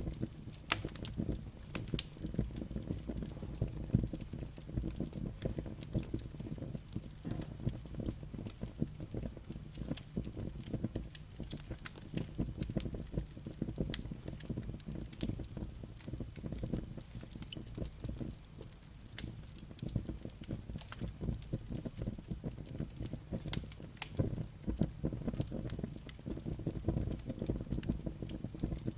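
Wood burning in a fireplace: dense, irregular crackling and popping of the logs and embers over a low, steady rumble of the flames.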